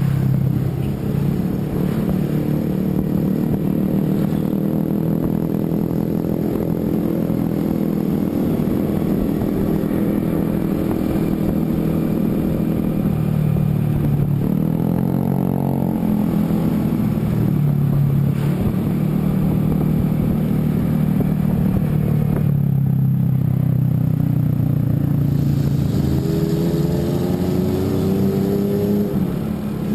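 A vehicle engine running under way. Its pitch drops and climbs back about halfway through, like a shift or a change of speed, and rises again near the end.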